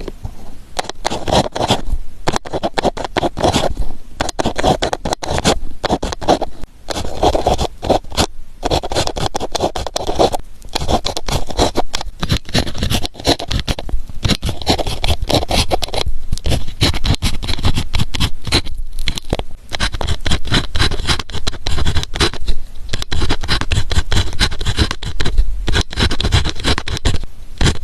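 Ballpoint pen writing on paper: quick scratching strokes in runs, broken every few seconds by brief pauses where the pen lifts.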